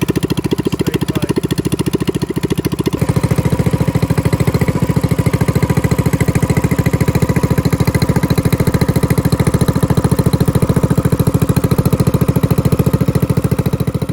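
Coleman CT200U-EX mini bike's small single-cylinder four-stroke engine running through an aftermarket exhaust, with a steady, even exhaust beat. About three seconds in it gets louder and then holds steady.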